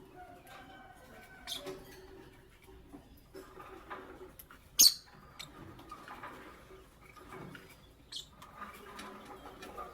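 Pet lovebirds making short, high squeaky chirps and soft chatter, with one much louder, sharp sound about halfway through.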